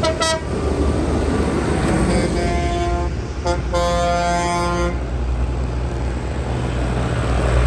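Vehicle horns tooting over the steady low rumble of passing heavy vehicles' engines: a short toot at the start, then three horn blasts between about two and five seconds in, the last about a second long.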